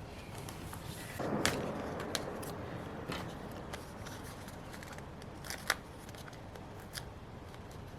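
Paper and sticker handling on a planner page: a burst of paper rustling a second or so in, with a few sharp clicks and taps, the loudest two just after the rustle starts and near the middle.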